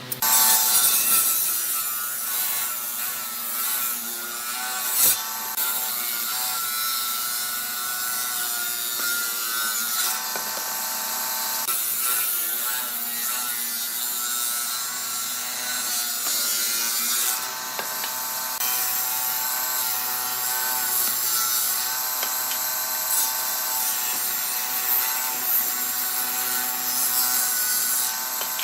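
Small woodworking power tool running and working wood: a steady motor whine over the rasp of the wood. Its pitch shifts a few times, about 10, 12 and 17 seconds in.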